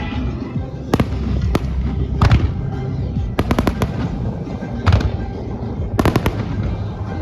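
Fireworks bursting overhead in sharp bangs, some single and some in quick clusters of three or four, over music played for the show.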